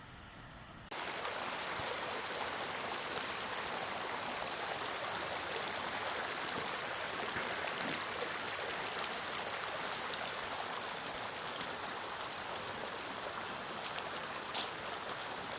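Steady rushing water of a stream running high in flood, starting abruptly about a second in.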